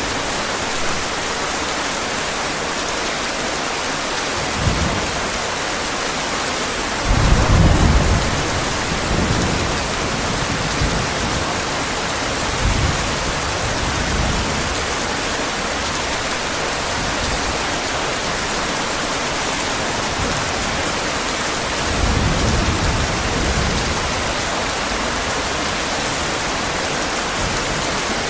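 Steady heavy rain with low rolls of thunder: a short rumble about five seconds in, the loudest roll a couple of seconds later, smaller ones around thirteen seconds, and another roll a little past twenty seconds.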